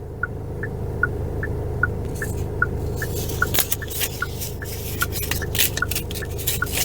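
A car's indicator ticking evenly, about two and a half ticks a second, over the steady hum of the running car inside the cabin. From about two seconds in, scattered rustling and small clicks.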